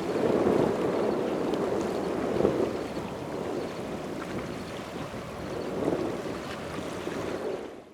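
Wind buffeting the microphone, a rushing noise that swells and eases in gusts, fading out at the very end.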